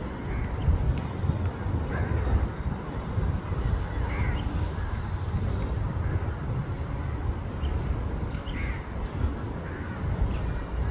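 A crow cawing a few times, single calls spaced several seconds apart, over a steady low rumble.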